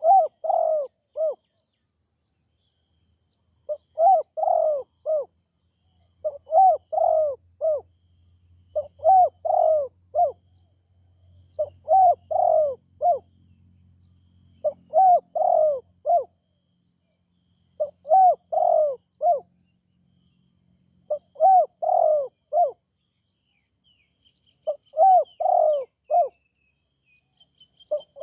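Spotted dove cooing, a phrase of four or five notes repeated about every two and a half seconds.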